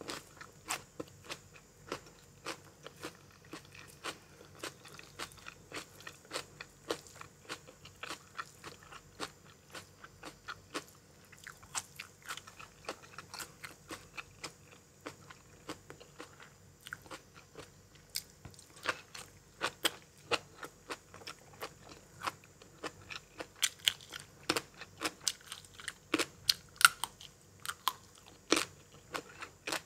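Close-up eating: chewing and biting into crunchy food, a steady run of short sharp crunches a few times a second, louder and more frequent in the second half.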